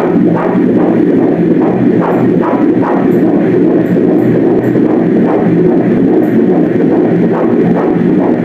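Fetal heartbeat played through an ultrasound machine's Doppler: a fast, even pulse of a little over two beats a second, about 139 beats a minute, a quick rate that is normal early in pregnancy.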